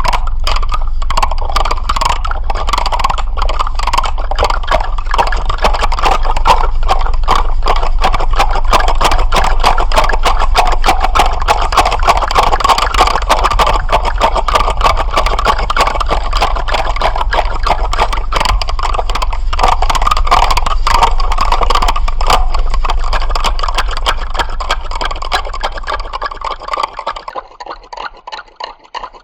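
Continuous, dense rattling: a fast stream of fine clicks over a low steady hum, fading away over the last few seconds.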